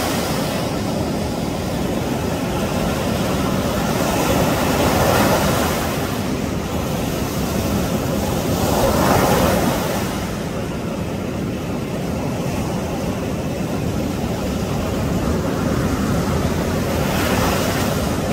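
Surf on a sandy beach: a steady rush of waves that swells three times as waves break and wash in.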